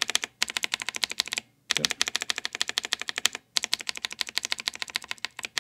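Clicky blue mechanical keyboard switches pressed rapidly, about ten clicks a second, in three runs with short pauses between them. The keys are tested in turn: one original switch and others lubed with Vaseline and with hand cream to soften their click.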